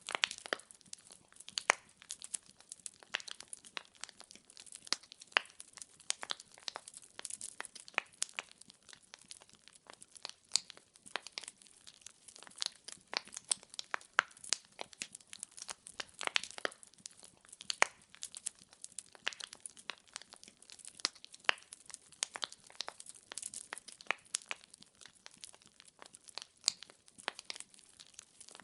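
Firewood burning with a steady crackle: irregular sharp pops and snaps, several a second, over a faint hiss.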